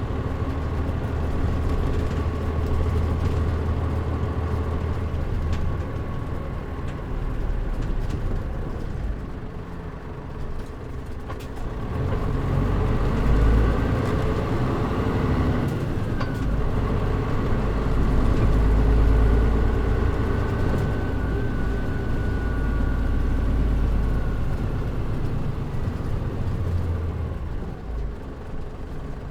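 Diesel engine and drivetrain of a Mitsubishi Fuso KL-MP37JM city bus, heard from inside the cabin with the air conditioning off. It runs steadily, eases off about ten seconds in, then pulls harder again for a long stretch with a faint whine above the engine before easing off near the end.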